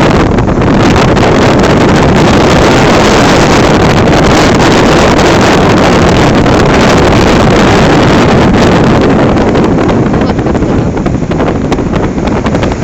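Loud, steady rush of wind on the microphone, turning choppy and fluttering in the last few seconds.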